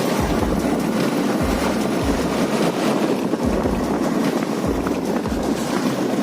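Motorcycle riding along an open road: steady engine and road noise mixed with wind on the microphone, with a deep rumble swelling and fading about once a second.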